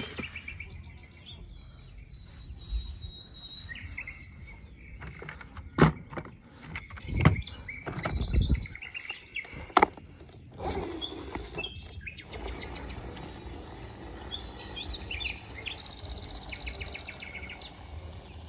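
Small birds chirping in short bursts on and off, with a few sharp knocks in the middle.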